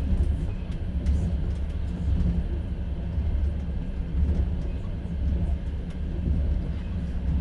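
Steady low rumble of a moving passenger train, heard from inside an open-plan sleeper carriage, rising and falling slightly with a few faint clicks.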